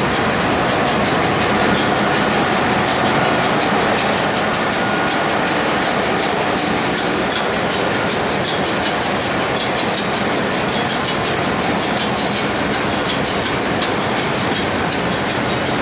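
Ship's engine-room machinery running steadily: a loud, dense mechanical din with a fast, regular ticking over it.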